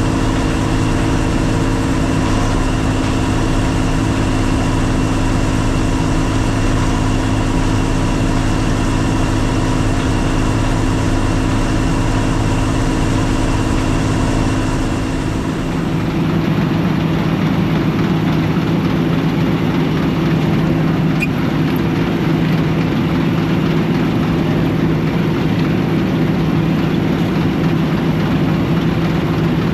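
Combine harvester's engine running steadily with a constant drone; about halfway through the sound changes suddenly to a lower, different hum.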